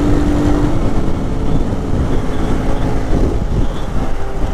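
Lifan KP motorcycle engine running while riding at road speed, buried in heavy wind rush on the helmet mic; its steady note wavers and shifts pitch about three seconds in.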